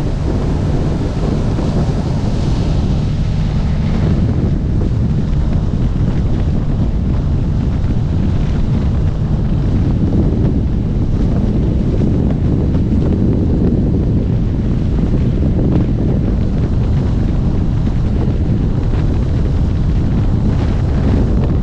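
Steady wind rumble buffeting an action camera's microphone at riding speed on a Kawasaki Ninja 1000SX. The bike's inline-four engine runs underneath it.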